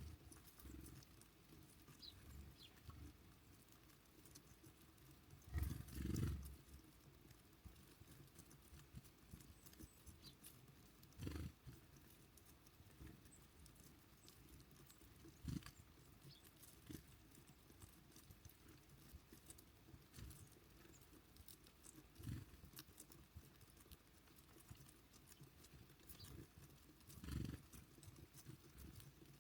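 Birds at a feeder: a few dull knocks and taps a few seconds apart over a very quiet background, the loudest a double knock about six seconds in, with a few faint high chirps.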